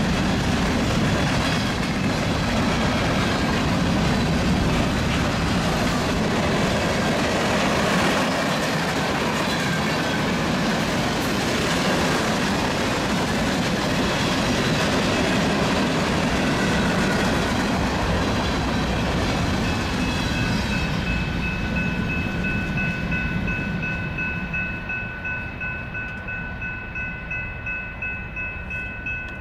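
Freight train passing at speed: the steady rumble and clickety-clack of hopper and tank cars rolling over the rails, fading over the last third as the train draws away. A steady high whine comes in about two-thirds of the way through.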